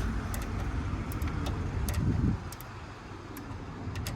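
Scattered light metallic clicks and clinks of hand tools working on a car battery's terminals, over a low steady rumble that drops away about two seconds in.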